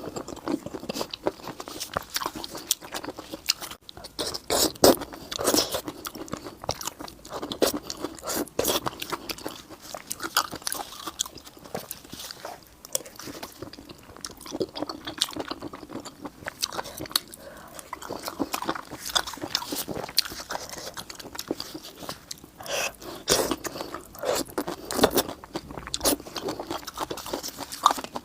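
A person eating close to the microphone: crunchy bites and chewing, with many sharp, irregular crunches and louder clusters of bites.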